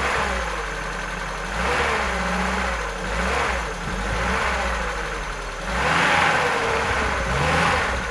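A vehicle engine running and revving, swelling louder and easing off several times.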